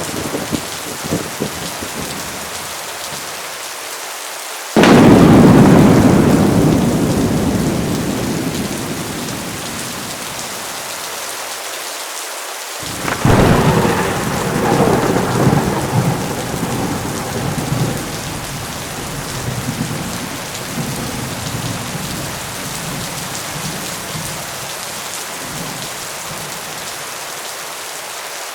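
Steady heavy rain with two peals of thunder: a sudden loud crack about five seconds in that rumbles away over several seconds, and a second rolling rumble starting a little past the middle.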